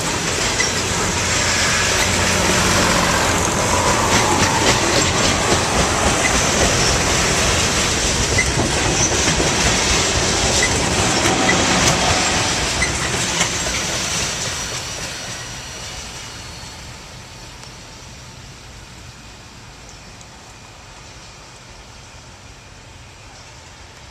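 A train rolling past, its wheels clacking over the rail joints with a steady rumble. The sound fades away between about 14 and 17 seconds in as the train recedes.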